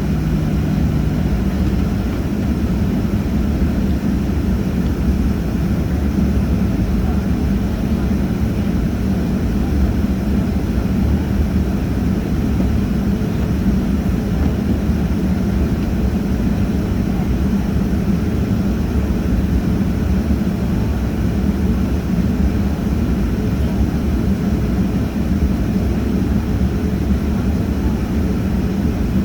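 Airliner's engines running steadily, a continuous low, even noise with a steady low hum and no rise or fall in level.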